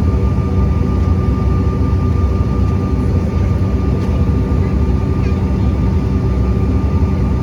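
Steady airliner cabin noise: a loud low rumble from the aircraft's engines and airflow, with several constant hums running through it and no change in pitch.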